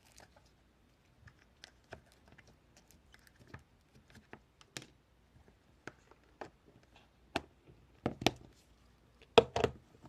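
Irregular light taps and clicks of objects being handled close to the microphone, with a few louder knocks about eight seconds in and again near the end.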